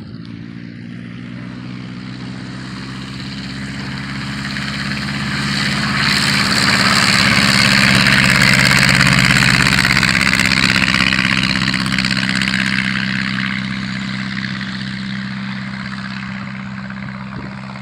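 Light propeller airplane taxiing past. The piston engine runs steadily and the propeller whirs, growing louder to a peak about halfway through, then fading as the plane moves away.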